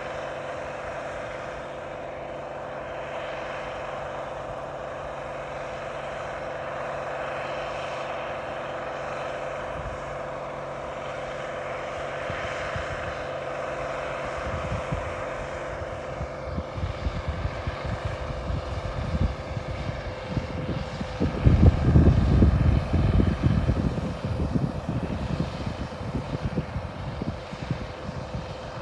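1470 hillside combine running steadily, an even machine hum that holds one pitch. From about halfway an uneven low rumble comes and goes over it, loudest a little past two thirds of the way in.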